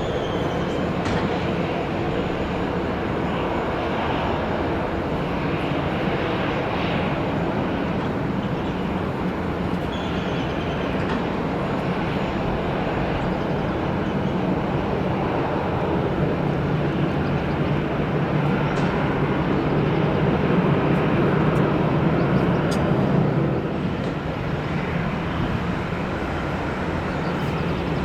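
Jet airliner engines, a steady rumble and roar that builds to its loudest about twenty seconds in, then eases off suddenly.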